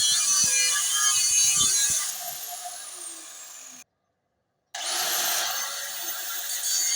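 Angle grinder cutting through a steel gas cylinder, a harsh high-pitched grinding. About two seconds in, the whine falls away in pitch. The sound cuts out entirely for under a second, then the grinder spins back up with a quickly rising whine and carries on cutting.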